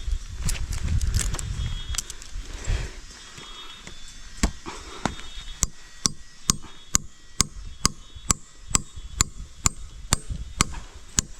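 Low rumbling and rustling, then about four seconds in a steady run of sharp chopping strikes, about two a second, like a blade hacking at wood.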